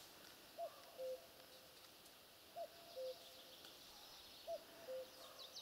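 A distant bird giving a repeated two-note call, a short higher note followed by a longer lower one, three times about two seconds apart, faint over quiet open-air background.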